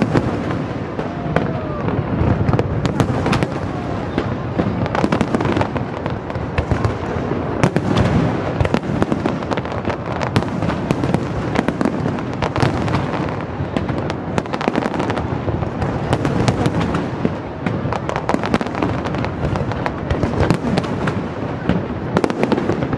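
Aerial fireworks display: shells bursting in a dense, unbroken barrage of bangs and crackle.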